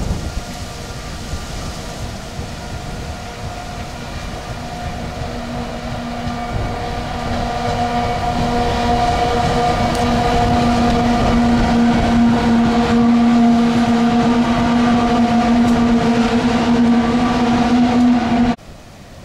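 Pacific National 93-class diesel-electric locomotives, led by 9313, pulling an empty coal train past at close range. A steady engine drone with several tones grows louder over the first half as the locomotives draw near and pass, then stays loud. It cuts off abruptly near the end.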